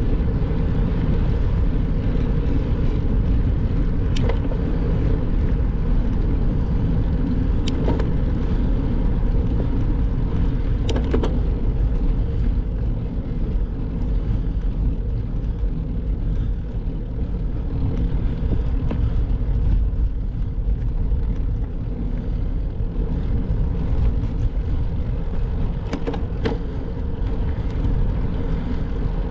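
Continuous low rumble of a bicycle ride, wind and road noise, with a few sharp clicks or rattles scattered through.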